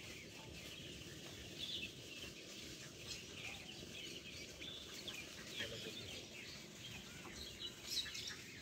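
Birds chirping and calling faintly, short high calls scattered irregularly over a low, steady background rumble.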